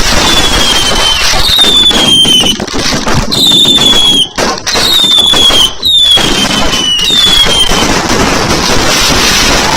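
Fireworks going off loudly: a run of about six short whistles, each sliding down in pitch, over a dense continuous crackle.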